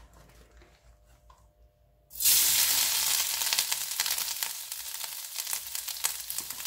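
Grated coconut tipped into hot coconut oil in a pan: a sudden loud sizzle about two seconds in that slowly eases as the coconut begins to fry.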